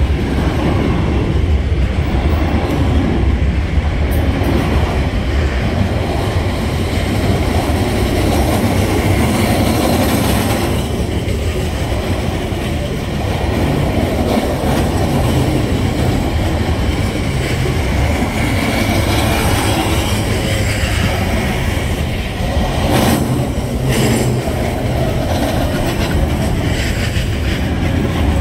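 A TasRail freight train's loaded container wagons rolling past close by: a steady, loud rumble of steel wheels on the rails, with a few sharper clacks from the wheels over the rail joints near the end.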